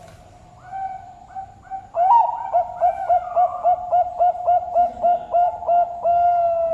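Zebra dove (Bangkok-type perkutut) singing: a few soft opening coos, then from about two seconds in a fast, even run of short coos at roughly three to four a second, ending on one long held note.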